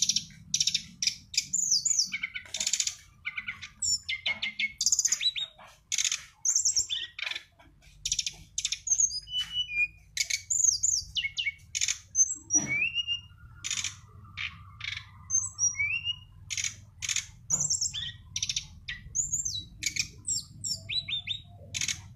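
A songbird singing a rapid, varied song of short chirps, trills and quick whistled glides, with brief pauses between phrases, over a faint low hum.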